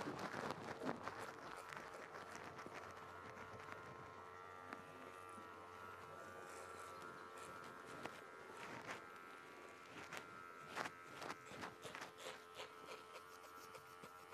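Faint steady electric buzz, with scattered footsteps and light knocks.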